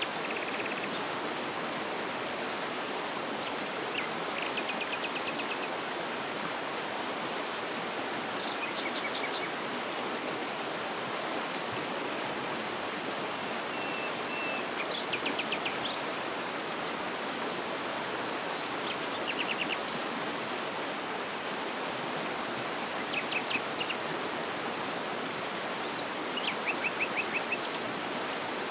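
Steady rush of a waterfall, with a small bird singing short trills of rapid repeated high notes about six times over the water's noise.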